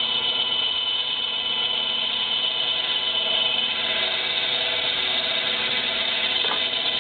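Electric power tool running steadily with an even, high whine while cutting a wooden ring.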